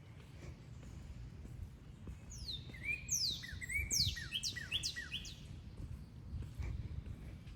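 A songbird singing one quick phrase of sharply falling high notes about two seconds in, lasting around three seconds, over a steady low rumble.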